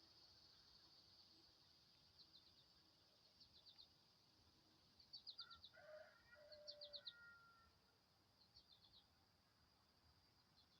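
Faint outdoor wildlife: a steady high insect drone with short groups of three to five quick, high chirps every second or two, and a couple of fainter, lower calls near the middle.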